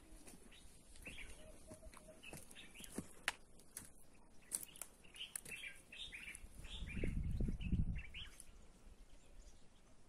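Small birds chirping repeatedly in short high notes, with scattered sharp clicks. A low rumble about seven seconds in, lasting about a second, is the loudest sound.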